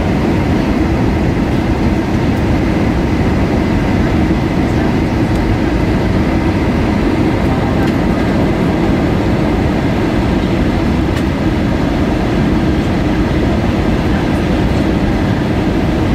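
Steady cabin noise inside an Airbus A320-232 on final approach: an even, low rush of airflow and engine noise from its IAE V2500 engines, with a faint steady whine above it.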